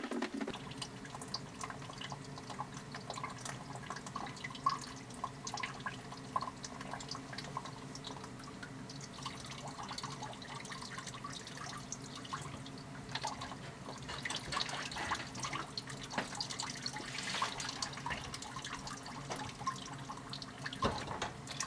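Water dripping and trickling from a water pipe that is being cut through with a tubing cutter, as the cut opens the line. A steady low hum runs underneath.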